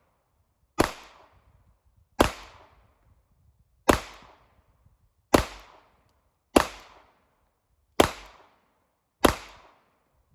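Seven handgun shots fired one at a time at an even, deliberate pace, about one and a half seconds apart, each sharp crack trailing off in a short echo: slow aimed fire at small target squares.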